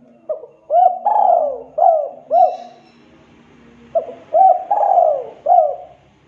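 Spotted dove (tekukur) cooing: two phrases of four or five coos each, with a pause of about a second between them.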